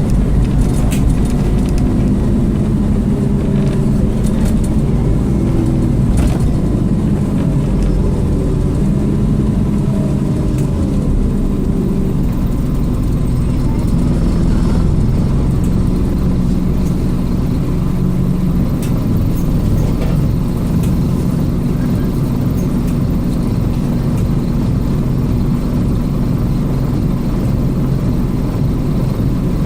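Scania OmniCity double-decker bus running, its nine-litre five-cylinder diesel engine changing pitch as it works, with road noise.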